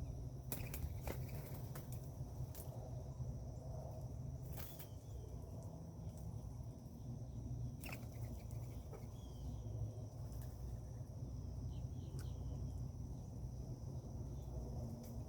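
Birds at a garden feeder: a few faint short chirps and scattered sharp clicks, over a steady high insect drone and a low background rumble.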